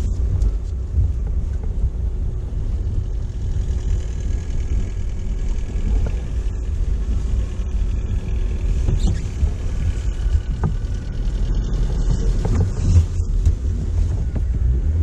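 Engine of an off-road 4x4 running at low speed while it crawls along a snowy track, a steady low rumble heard from inside the cabin, with a few light knocks.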